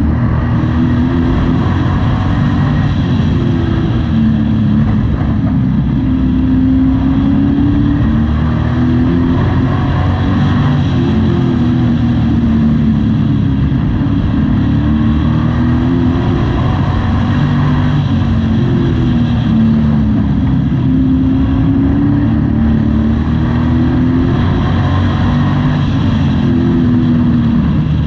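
Pro Truck race engine heard from inside the cab, at full throttle and lifting in a regular cycle, its pitch rising and falling every four to five seconds as it laps a short oval track.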